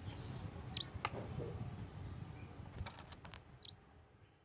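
A scarlet minivet giving a few short, high chirps, spaced out, among scattered clicks and a low rumble, all fading out near the end.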